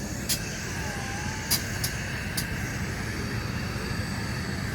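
Union Pacific Big Boy No. 4014 steam locomotive and its train departing: a steady low rumble, with a few sharp clicks in the first half.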